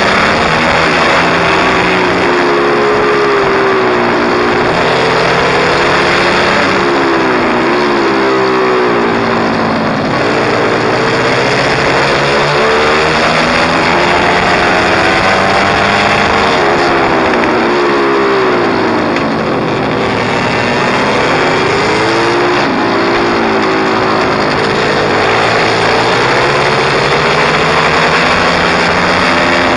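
Pit bike engine running hard, its pitch climbing and dropping again and again as the throttle is opened and closed through the rev range.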